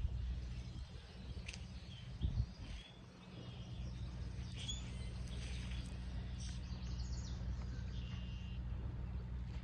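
Beach ambience: a steady low rumble, with short bird chirps here and there.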